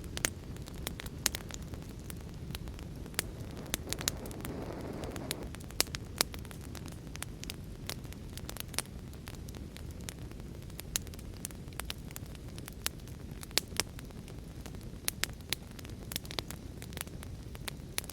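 Wood fire burning in a fireplace: a steady low rushing hiss of the flames with sharp, irregular crackles and pops from the burning logs, and a brief swell of hissing flame about four seconds in.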